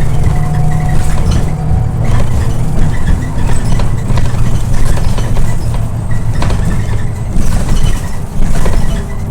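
Scania OmniLink I city bus driving, heard from inside: a heavy low engine and road rumble with a steady whine over it, and a few sharp knocks and rattles from the body over bumps in the later part.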